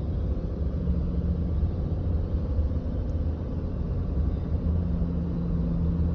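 Steady low rumble of a vehicle, heard from inside a car.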